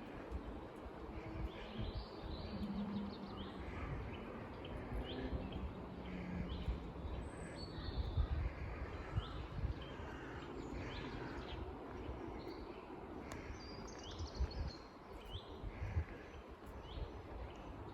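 Small birds chirping and calling in short, repeated notes, over a low, uneven outdoor rumble.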